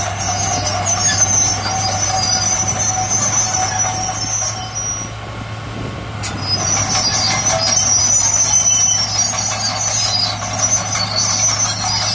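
Heavy earthmoving machine running, a steady low engine drone under high metallic squealing. The squeal fades about five seconds in and returns, louder, a second or so later.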